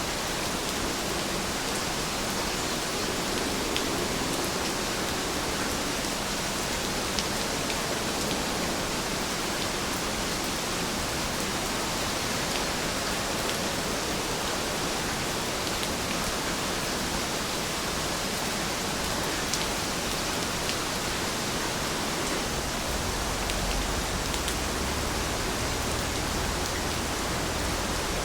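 Steady rainfall, an even hiss with a few sharp drop ticks here and there. A low rumble comes in near the end.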